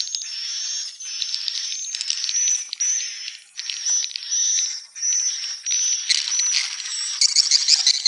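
Swiftlet calls: rapid buzzy, rattling twitters and chirps in repeated phrases of about a second, each broken by a short gap, growing denser and louder near the end.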